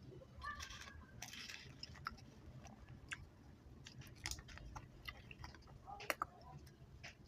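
Close-up chewing of chewy chocolate candy: irregular wet mouth clicks and smacks, a few sharper ones standing out.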